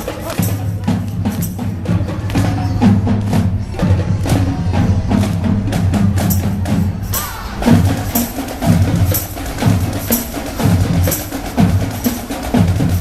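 Marching showband playing: drums and percussion beat a dense rhythm over a low bass line, which changes from held notes to short separate notes about halfway through.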